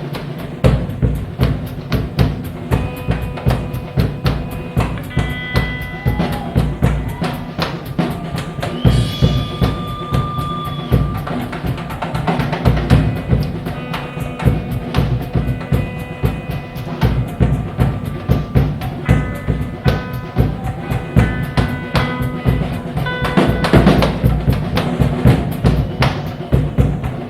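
Live blues-rock band heard straight off the soundboard: a driving drum-kit beat with bass, under long held and bending lead notes.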